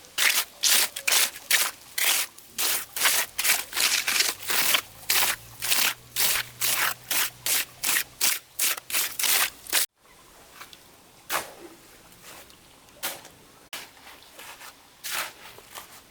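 Rapid repeated scraping strokes, about two or three a second, that stop abruptly about ten seconds in, followed by a few scattered strokes.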